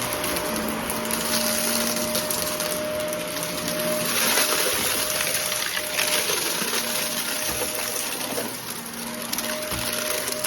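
Vacuum cleaner running steadily with a constant motor whine, with a crackle of debris being sucked up during a mess pick-up test.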